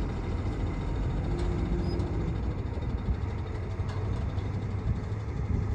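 Heavy diesel machinery running steadily at a dig, a low continuous engine rumble, with a brief faint whine about a second and a half in.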